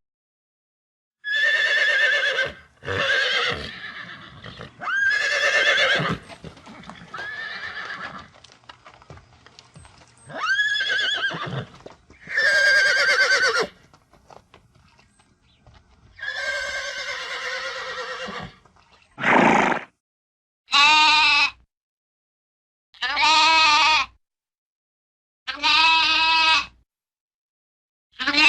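A series of farm animal calls, about a dozen separate cries with short pauses between them. The later cries are shorter and more clipped.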